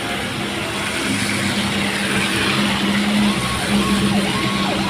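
A heavy dump truck's engine running and growing slightly louder as it passes, over a steady hiss of tyre and road noise. About three seconds in, a repeating up-and-down warbling tone comes in.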